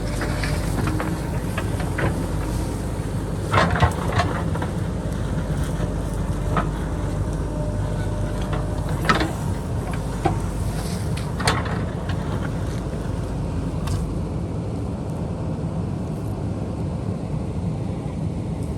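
JCB backhoe loader's diesel engine running steadily under load, with a few sharp knocks and clanks scattered through, the loudest about four seconds in. The deepest part of the engine drone drops away after about fourteen seconds.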